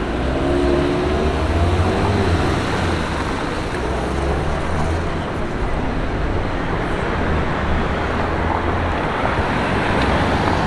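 Street traffic: a steady low rumble of passing vehicles, with one engine rising in pitch as it accelerates in the first couple of seconds.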